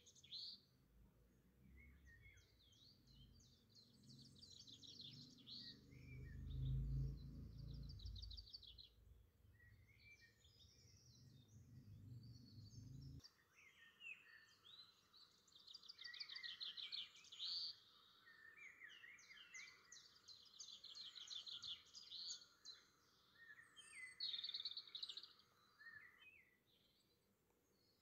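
Faint birdsong: repeated rapid trills and short chirps. A low rumble under the first half stops abruptly about halfway through.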